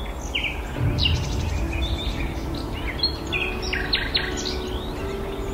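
Birds chirping in short repeated calls over a steady low outdoor rumble, with a faint held tone coming in about a second and a half in.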